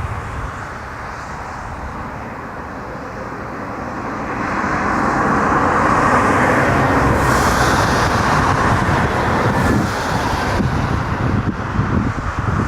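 Jet airliner engines, a broad rushing noise that grows louder about four seconds in and stays loud as the aircraft comes close.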